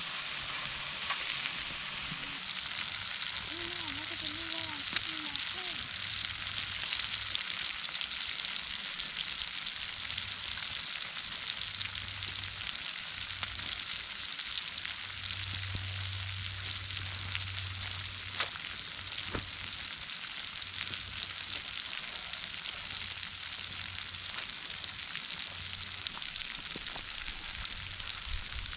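Sliced peppers frying in hot oil in a cast iron pan over a campfire: a steady sizzle full of fine crackling, with a few sharper pops.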